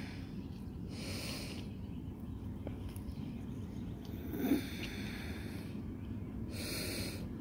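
Three short, breathy huffs like snorting exhales close to the microphone, a few seconds apart, over a steady low background rumble.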